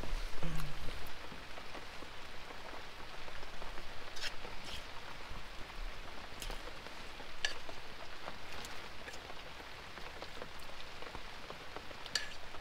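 Rain falling on the fabric of a rooftop tent, heard from inside: a steady hiss with scattered sharper drop hits.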